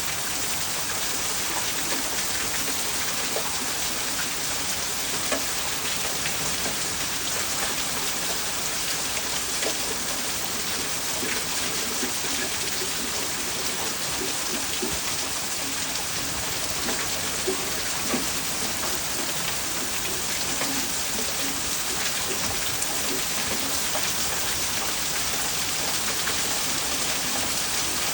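Steady rain falling hard, an even unbroken hiss with a few faint ticks of individual drops.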